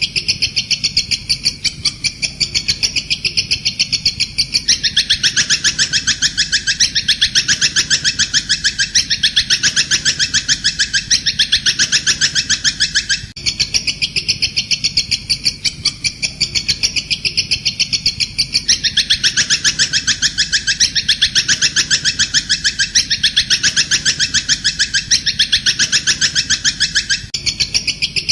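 Bird-training (masteran) recording of a bird call sold under the folk name 'kuntilanak': a loud, unbroken run of rapid high chirps, several a second. The same sequence repeats about every 13 seconds as a loop.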